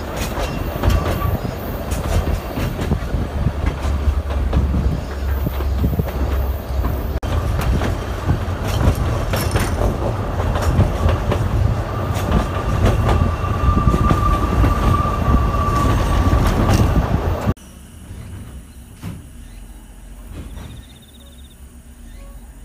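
Ōigawa Railway Ikawa Line passenger car running on a winding mountain line, heard through the open window: rumble and clatter of wheels on rail, with a thin, steady wheel squeal for a few seconds on a curve. About 17 seconds in the noise drops suddenly to a much quieter background.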